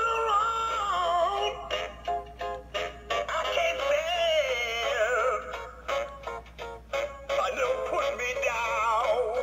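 Animated Halloween pumpkin cat figure playing its song through a small built-in speaker: a sung melody with wavering notes over a steady beat.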